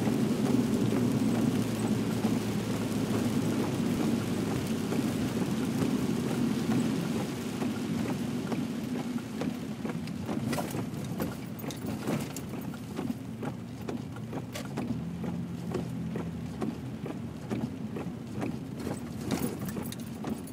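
Vehicle running, heard from inside the cabin: a steady low rumble that eases off about halfway through as it slows. Scattered sharp taps come through in the second half.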